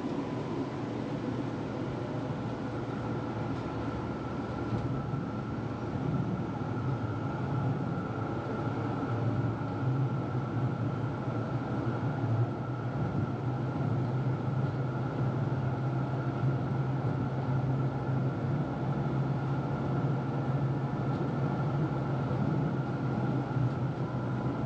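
Electric tram running along its tracks, heard from inside the car: a steady rolling rumble with a thin whine above it. A low motor hum grows stronger and steadier from about a third of the way in as the tram gets under way between stops.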